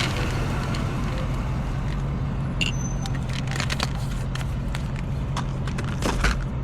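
Steady low hum of a car running, with scattered clicks and small rattles as pill bottles and a plastic pill container are handled.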